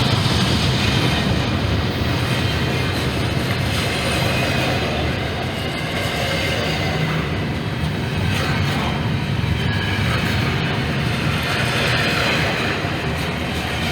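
Norfolk Southern freight train rolling past, its cars making a steady noise of wheels on rail.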